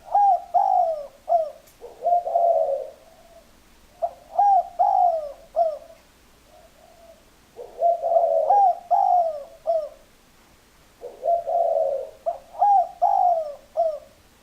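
Spotted dove cooing: four phrases about three and a half seconds apart. Each phrase is a few short falling coos and one lower, rougher coo.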